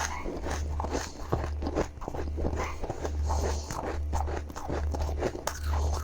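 Close-up crunching and chewing of powdery freezer frost, many quick irregular crunches, over a low steady hum.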